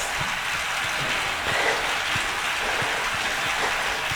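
Indoor cycling trainer pedalled hard: a steady rushing hiss with faint low thumps about three times a second.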